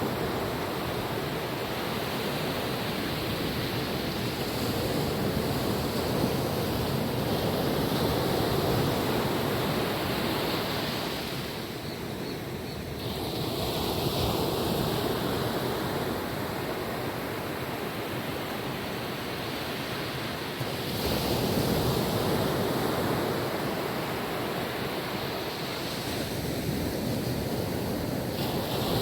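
Calm ocean waves washing onto a beach: a steady surf hiss that swells and eases every several seconds.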